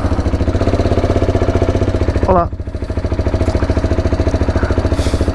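KTM 690's single-cylinder engine idling with a steady, rapid, even pulse.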